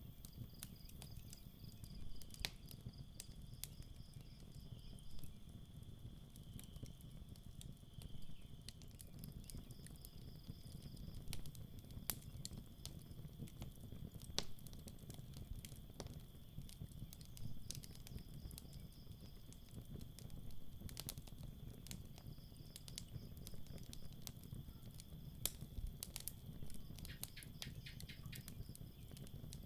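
Campfire crackling with scattered sharp pops and a low rumble of the fire, over crickets chirping steadily in the background.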